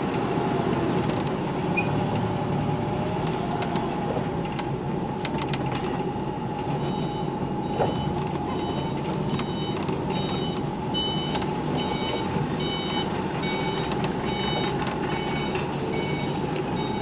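A lorry's diesel engine running while it is manoeuvred in reverse, with a few sharp clicks, then its reversing alarm beeping at an even pace, about once a second, from about seven seconds in.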